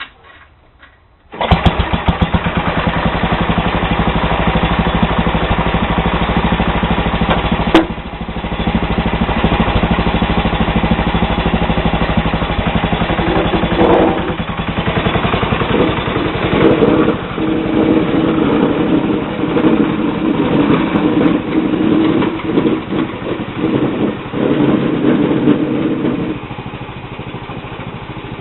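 Tecumseh HH120 single-cylinder engine of a Sears Suburban SS12 garden tractor starting about a second and a half in, then running with a rapid, even firing pulse. From about fourteen seconds in its note rises and falls, then settles to a quieter steady run near the end.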